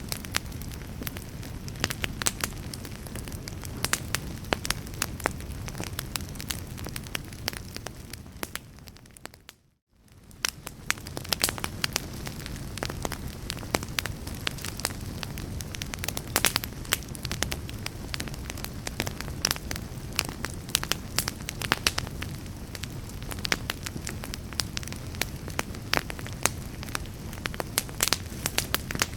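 Fireplace fire crackling: frequent sharp pops and snaps over a low rumble. About a third of the way in, the sound fades away to a moment of silence, then fades back in.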